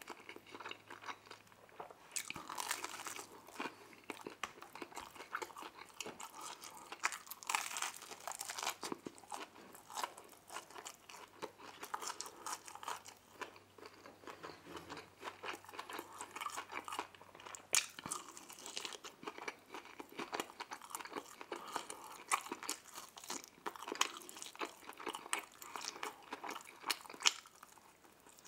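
Close-miked eating: biting and chewing buffalo wings and deep-dish pizza, with crunchy, crackly mouth sounds and sharp clicks, and a few louder bites scattered through.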